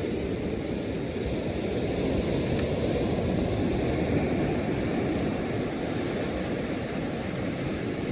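Steady low rushing of wind and ocean surf at the shore, with the wind buffeting the microphone.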